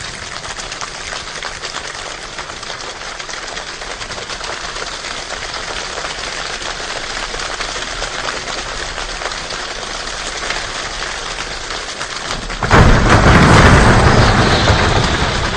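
People imitating a rainstorm without water, using hand percussion: a dense patter of many small claps and taps that grows steadily louder. About 13 s in it jumps to a sudden loud burst with a deep rumble, like thunder, then eases off.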